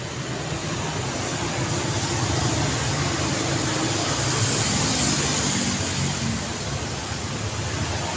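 Road traffic: a vehicle passes close by, its engine rumble and tyre hiss swelling over the first few seconds, loudest around the middle, then easing slightly.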